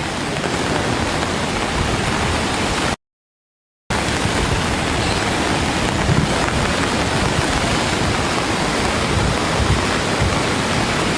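Steady rushing noise of storm wind and water, broken by a dropout of total silence lasting about a second, about three seconds in.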